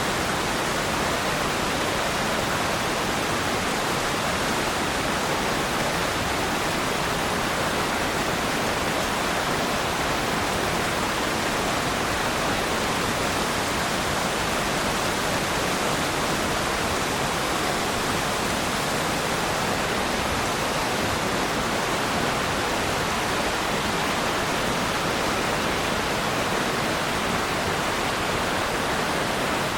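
Waterfall, a steady unbroken rush of falling water.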